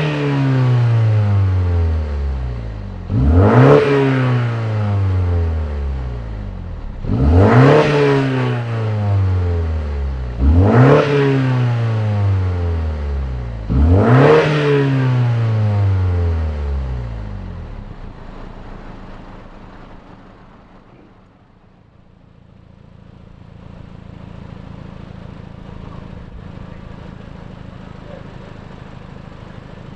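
BMW 128ti's turbocharged four-cylinder through a Milltek valved exhaust, free-revved four times about every three and a half seconds. Each rev climbs sharply and then falls back slowly. After the last rev it settles to a steady idle.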